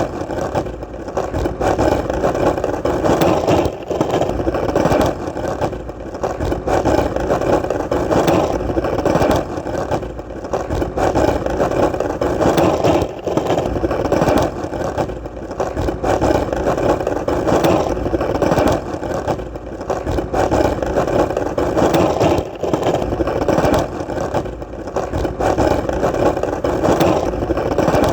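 Skateboard wheels rolling steadily on hard, solid ground: a continuous rumble that swells and dips slightly, with an occasional faint click.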